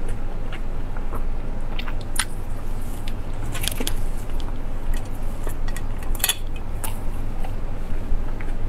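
Close-miked chewing of grilled skewered meat: scattered wet mouth clicks and crackles, a cluster about four seconds in and another about six seconds in, over a steady low hum.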